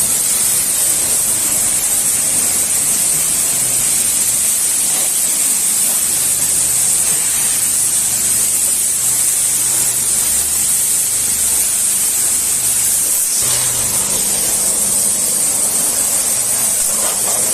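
High-pressure car-wash water spray hissing steadily, with a low machine hum underneath that shifts about thirteen seconds in.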